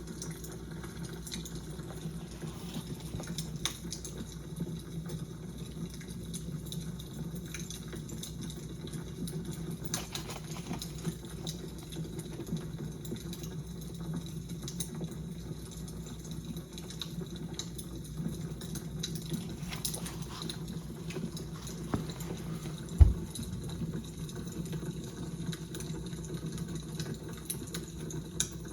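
Fire crackling: scattered small pops and snaps over a steady low hum. One low thump about three-quarters of the way through.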